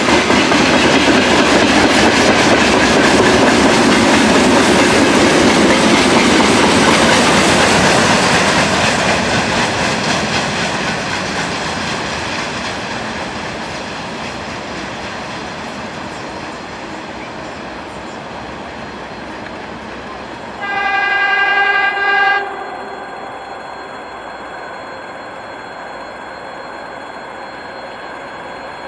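A VL10u electric locomotive and its train roll past with loud rumbling wheel noise that fades away over about ten seconds. About twenty seconds in, a train horn sounds one steady blast of under two seconds.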